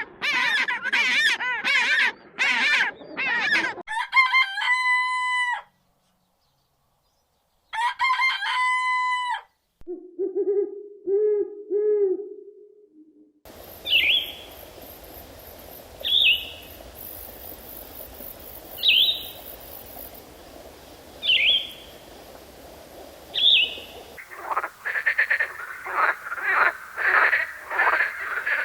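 A run of different animal and bird calls one after another, among them a rooster crowing twice, low repeated clucking-like calls, and short sharp chirps about every two seconds.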